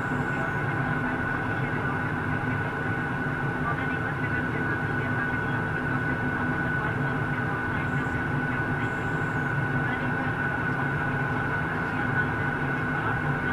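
Steady airliner cabin noise: the drone of the engines and rushing air, with a steady high whine over it.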